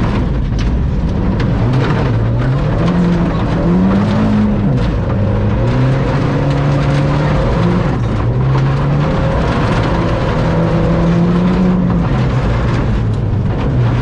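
Ford Fiesta ST rally car's engine, heard from inside the cockpit at full stage pace, revving up and dropping back repeatedly through gear changes and corners. A steady rush of tyre and road noise runs under it.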